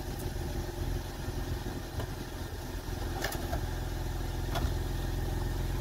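BMW 323ci's straight-six engine idling steadily while its power soft top folds open, with a few light clicks from the top mechanism.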